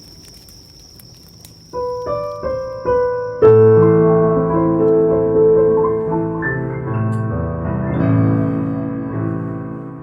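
Piano playing the closing bars of a piece: a few single notes, then a full chord struck about three and a half seconds in that rings on with further chords and slowly dies away as the piece ends.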